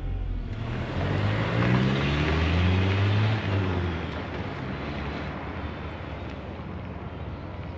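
Ford Ranger's 2.3-litre four-cylinder engine, running well on a freshly swapped cylinder head, revved up once, peaking about three seconds in, then falling back to a steady idle.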